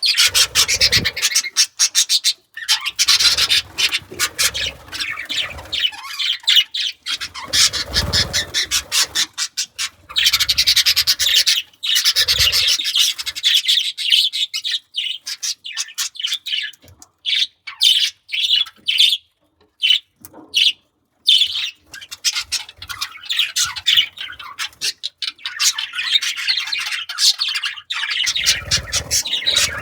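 Budgerigars chattering and warbling in rapid, broken runs of chirps and squawks, with a few dull thumps.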